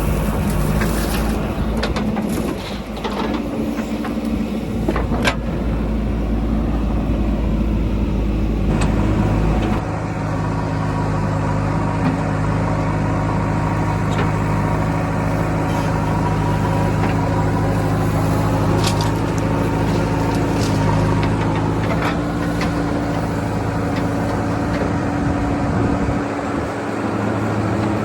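Diesel engine of a JCB backhoe loader running steadily as it digs and loads earth, with scattered sharp knocks and clanks. The engine note shifts about ten seconds in.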